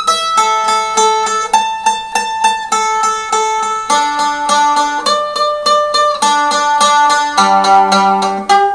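1909 Calace bowlback mandolin, restored and strung with light steel strings, playing a tremolo-picked melody. Each note is held for about half a second to a second and re-struck several times a second. Fairly loud.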